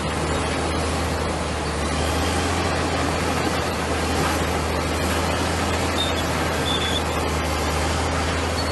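Komatsu bulldozer's diesel engine running steadily: a constant low drone under an even wash of machine noise.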